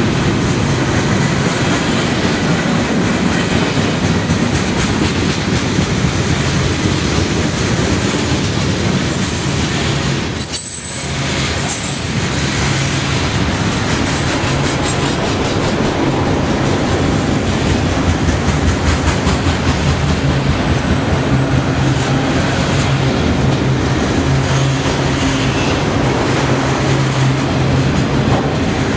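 Freight cars rolling past close by at speed: a steady, loud rumble and clatter of steel wheels on the rails. Thin, high wheel squeals come and go through the first half. The sound dips briefly about ten and a half seconds in.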